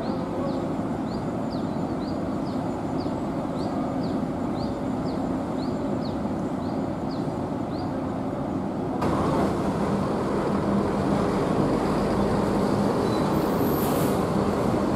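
Bus diesel engine running over a steady hiss of heavy rain. A short high chirp repeats about twice a second in the first half. About nine seconds in, the noise gets louder and fuller as a bus comes closer, and near the end there is a brief air-brake hiss.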